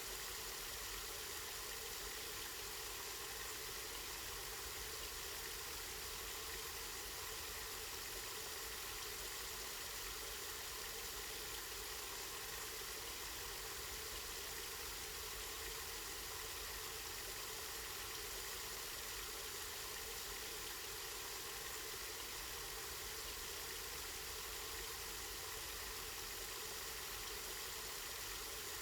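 Spring water flowing and splashing steadily, an even hiss with no breaks.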